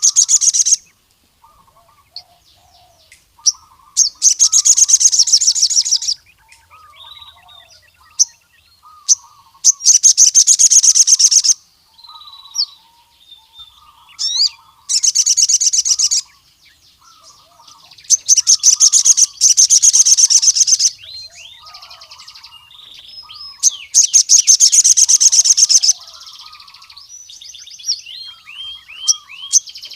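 Male crimson sunbird (sogon) singing: fast, high, rattling trills of about two seconds each, repeated every four to six seconds, with softer scattered chirps in between.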